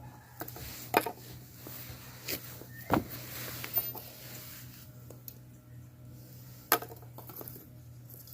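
A handful of sharp clinks and knocks, like utensils or small gear being handled and set down, over a steady low hum.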